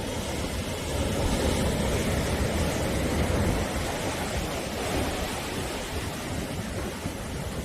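Sea surf washing in continuously, a dense steady rush of breaking waves that swells a little about a second in.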